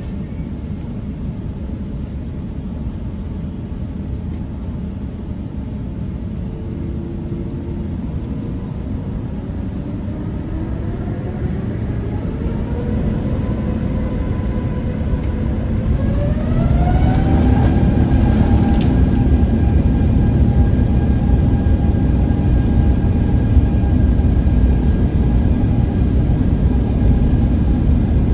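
Jet airliner's turbofan engines spooling up to takeoff thrust, heard from inside the cabin. A whine rises in pitch over about ten seconds from roughly a quarter of the way in, then holds steady under a loud, low rumble as the aircraft accelerates.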